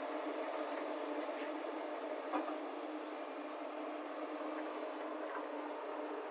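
Heavy diesel machinery, excavators loading soil into a lorry, running at a steady hum, with a few faint knocks.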